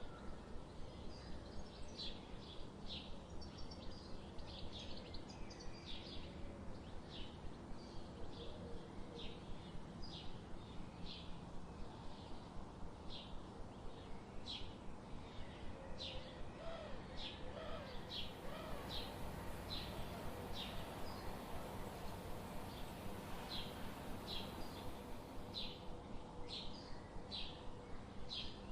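A bird calling with short, sharp, high chip notes, repeated about twice a second without a break, over steady background noise.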